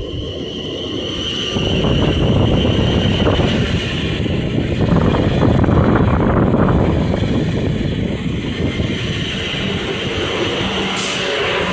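A ten-car electric passenger train running through the station, a loud rumble of wheels on rail that builds over the first two seconds and holds, over a steady high-pitched tone.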